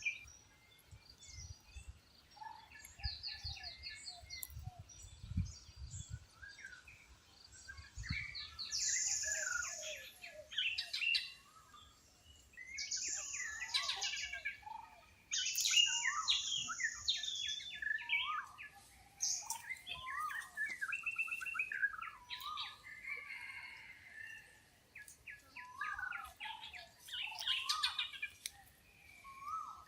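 A mix of wild birds calling and chirping, with short repeated notes, quick trills and overlapping calls from several birds. Soft low thumps come in the first several seconds.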